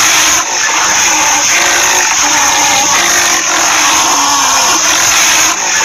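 Rhinoceros sound clip: a loud, steady, rough noise with a strong high hiss and a faint wavering low tone under it. It runs on without pauses, with a brief dip about half a second in and another near the end.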